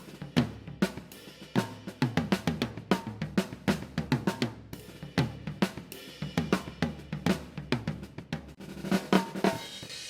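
Drum kit playing a steady groove of kick, snare, hi-hat and cymbals, with a cymbal washing out near the end.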